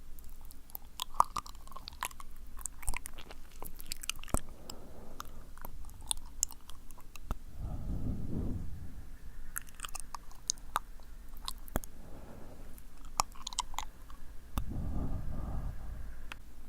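Wet ASMR mouth sounds close to the microphone: sticky lip and tongue clicks and smacks. Two breathy blows into the microphone come about eight seconds in and again near the end.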